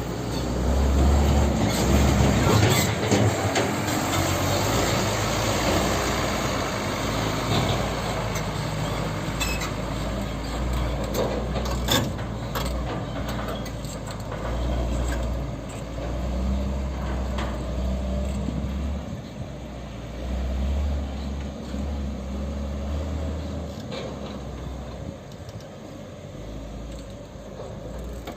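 Dump truck engine running and working, its pitch and load rising and falling, with a few sharp knocks or clanks, about two and a half and twelve seconds in.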